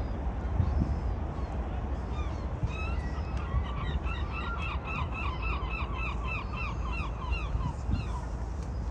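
A bird calling in a long, rapid series of repeated notes for about five seconds, starting about three seconds in, over a low steady background rumble.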